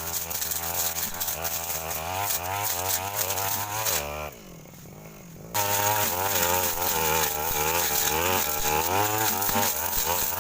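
Two-stroke brush cutter engine running at high revs, its pitch wavering up and down as the blade cuts through thick brush. About four seconds in, the sound drops away for a second or so, then comes back abruptly.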